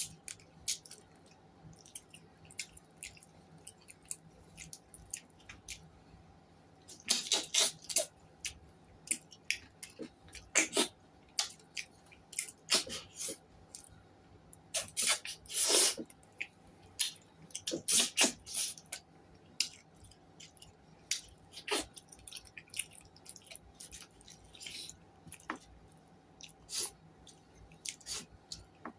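A person chewing and eating close to the microphone: irregular mouth clicks and smacks, with several louder bursts of smacking along the way.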